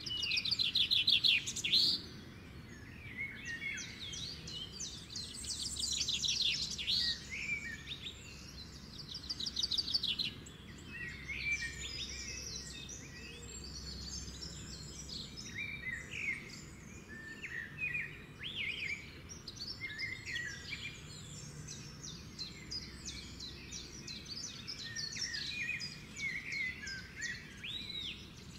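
Birds singing and chirping in a varied stream of calls, with fast trills about a second in and again around ten seconds in, over a faint steady low background noise.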